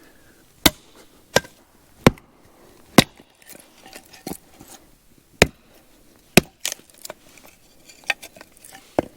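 Green, damp firewood being split into small pieces: a series of sharp chopping strikes at irregular spacing, about six loud ones with lighter ones in between.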